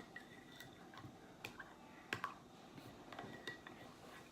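Faint, scattered light clicks and taps from handling kitchen things while making the sauce, one every half second to a second.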